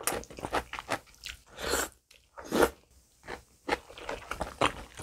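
Close-up chewing of a mouthful of kimchi jjim mixed with rice and tofu, with irregular soft crunches, picked up by a clip-on microphone.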